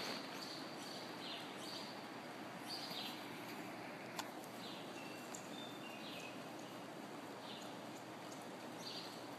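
Faint steady background noise with scattered short, high chirps of small birds.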